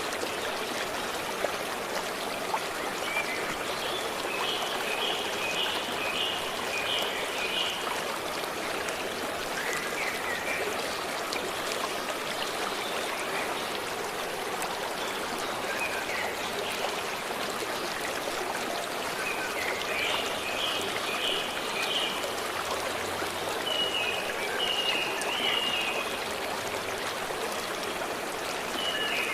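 A stream running steadily, with a small bird calling over it in several short bursts of quick, high, repeated chirps.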